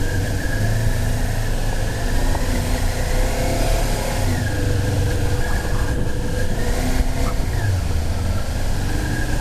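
Motorcycle engine running steadily under a heavy low rumble.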